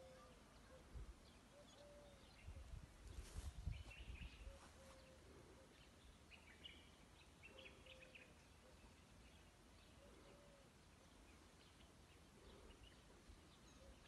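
Faint bird calls: short low notes repeating every second or two, and a scatter of higher chirps. A low rumble rises for about two seconds near three seconds in.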